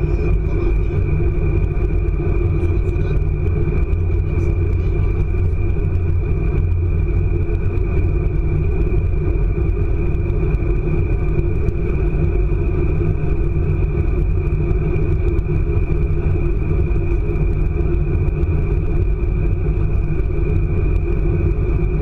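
ICE high-speed train running at speed, heard from inside the passenger car: a steady, heavy rumble with a constant high-pitched whine above it.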